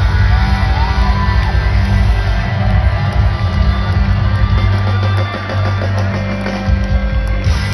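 Live rock band playing an instrumental jam: electric guitar lines that bend in pitch over steady heavy bass and drums.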